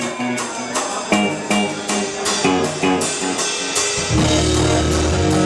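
Rock band playing live, electric guitar over steady drum hits about three a second; about four seconds in the band comes in much fuller and heavier in the low end.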